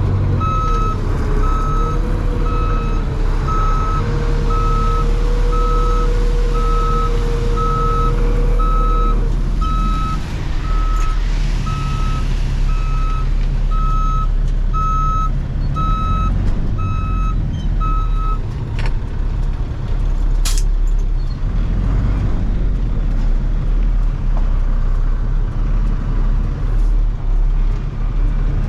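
Heavy truck's engine running while its backup alarm beeps about once a second as it reverses. The beeping stops about two-thirds of the way through, and the engine keeps running. A steady whine sounds over the engine for the first third.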